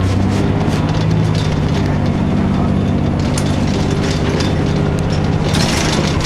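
Cummins ISC diesel engine of a 2002 Blue Bird CS transit bus running steadily as the bus drives, heard from inside the passenger cabin, with a constant low hum and scattered light rattles and clicks.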